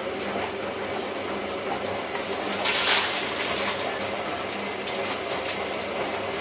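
Hotpoint 9534A washing machine running, with a steady mechanical hum and water rushing through it; the water sound swells briefly about three seconds in.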